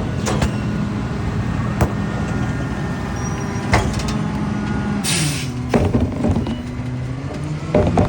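Garbage truck engine running steadily, with several sharp clanks and knocks and a short burst of air hiss about five seconds in; after the hiss the engine note dips, then climbs again near the end.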